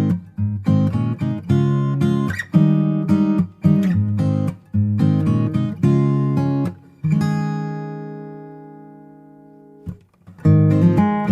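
Background music: acoustic guitar strumming chords, with one chord left ringing and fading for a few seconds before the strumming picks up again near the end.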